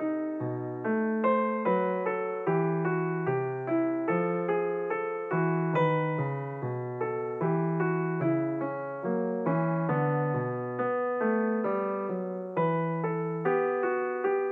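Background music on a piano-like keyboard: notes struck and dying away at a steady pace of about two to three a second over a lower bass line.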